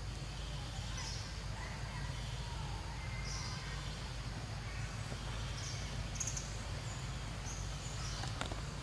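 Outdoor ambience: scattered faint bird chirps over a steady low rumble, with a couple of sharp clicks near the end.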